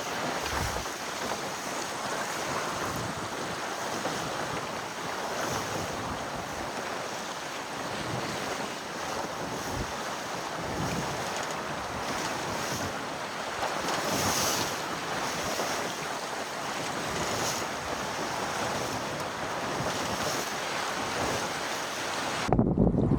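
Wind and water rushing past a sailboat's hull under sail, a steady hiss with occasional brief splashes, and wind buffeting the microphone. Near the end the hiss cuts off suddenly and a louder low rumble of wind on the microphone takes over.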